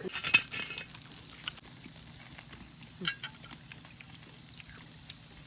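Soft, steady crackle and sizzle of the BBQ fire. It opens with a few sharp clicks and a short rush of noise in the first second and a half.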